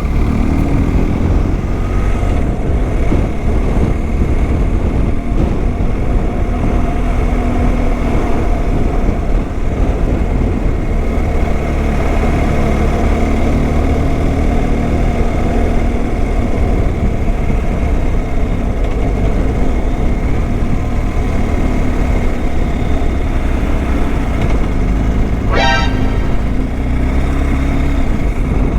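Motorcycle riding along the road: the engine runs steadily under a heavy, constant rush of low noise. A brief rapid rattle of clicks comes near the end.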